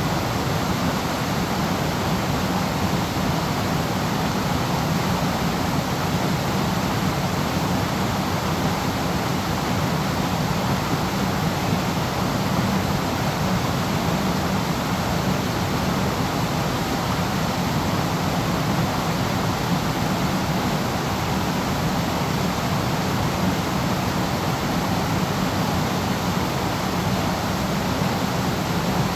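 Waterfall: a steady, unbroken rush of falling water with a deep low rumble.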